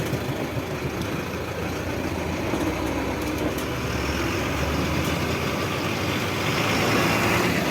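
Loaded ten-wheel truck's diesel engine running steadily at low revs in a traffic jam.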